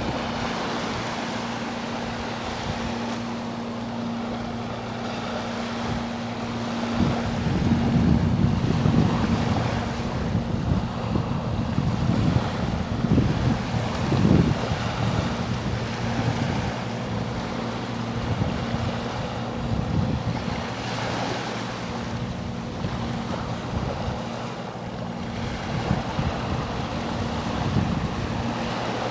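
Sea waves washing ashore over the steady hum of a boat engine, with wind buffeting the microphone; the wind gusts are strongest from about a quarter to half of the way through.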